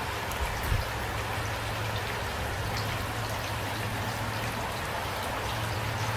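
Steady rain falling, with individual drops ticking through it, two brief low thumps under a second in, and a steady low hum underneath.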